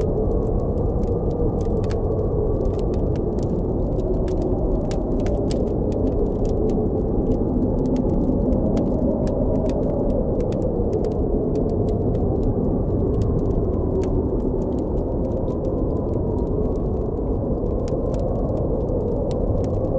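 Blizzard wind blowing in a steady low rush, with a faint whistle that slowly rises and falls in pitch. Throughout, a campfire gives frequent small, sharp crackles and pops.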